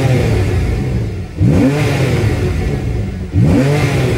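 Porsche 911 Carrera 4S (991.1) 3.8-litre naturally aspirated flat-six on its standard exhaust, without the sports exhaust, revved three times in sport mode while standing still. Each rev climbs to about 5,000 rpm and falls back, about two seconds apart, heard from the driver's seat with the windows down.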